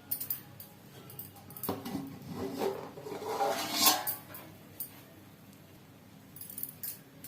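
Metal cookware clinking and scraping: a few sharp knocks of a pot lid and utensil against the biryani pot, with some scraping in between.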